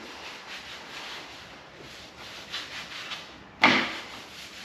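Repeated hand strokes rubbing across the plastic surface of a motorcycle headcowl as it is cleaned before priming. A sudden louder stroke comes about three and a half seconds in.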